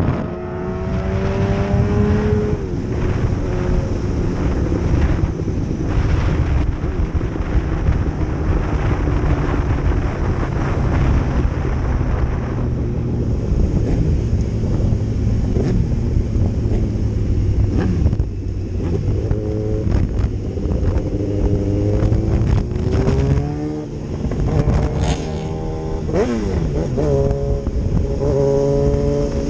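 Racing motorcycle engine under way, pulling up through the gears: its pitch climbs, drops at each shift and climbs again several times, over a heavy low rumble.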